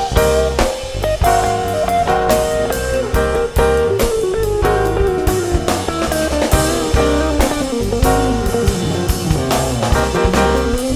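A rock band playing: electric guitar over a drum kit with a steady beat, a lead line descending in pitch across the passage.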